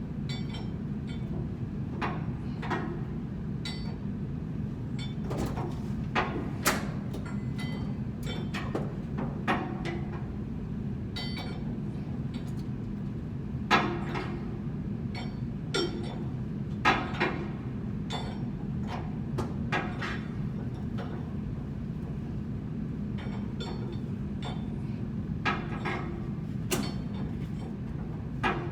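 Scattered metallic clanks, taps and clinks of hand tools working on a blower assembly during a bearing replacement, the loudest knocks about halfway through, over a steady low hum.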